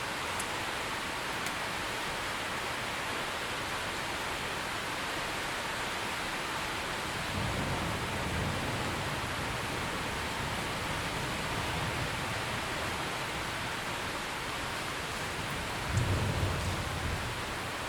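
Steady heavy rain, with a low rumble of thunder from about seven seconds in and a sudden, louder thunderclap near the end.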